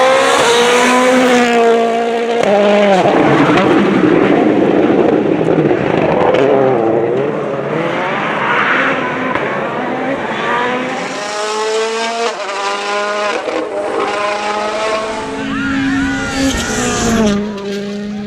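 2019-spec World Rally Car's 1.6-litre turbocharged four-cylinder engine driven flat out, revving hard and dropping back several times through gear changes and lifts, with tyre noise.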